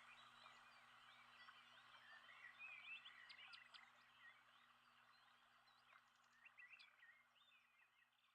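Faint recording of many birds chirping over a steady background hiss, fading out gradually toward the end.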